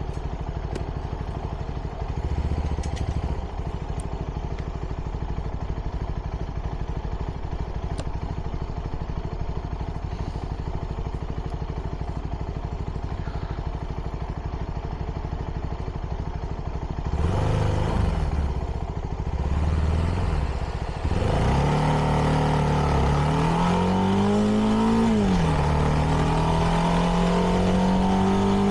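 CFMoto 300NK's single-cylinder engine on its stock exhaust idling steadily, then revving briefly and pulling away about twenty seconds in. Its pitch rises, drops at a gear shift a few seconds later, then climbs again more gently.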